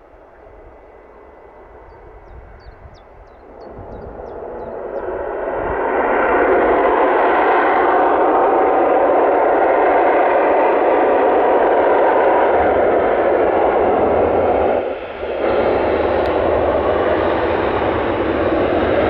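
Business jet's engines growing from faint to loud over a few seconds, then a steady, loud jet rush, with a brief drop in level about three-quarters of the way through.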